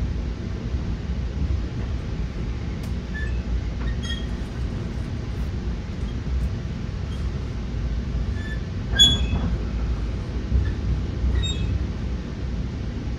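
Interior of a Metra commuter rail coach under way: steady low rumble of the wheels on the track, with small creaks and rattles. About nine seconds in, a brief sharp squeal rises above the rumble.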